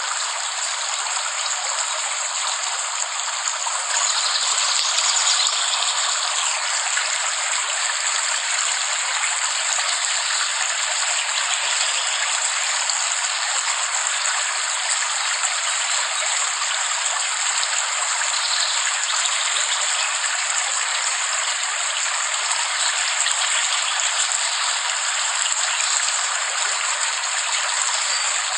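Steady heavy rain: a dense, even hiss with no low rumble, swelling slightly about four seconds in.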